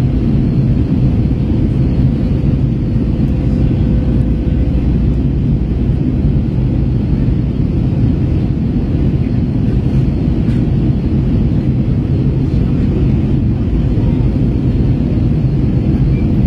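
Steady cabin drone of an Airbus A321 in flight: engine and airflow noise heavy in the low end, with a faint steady hum on top. The airliner is climbing out after a go-around.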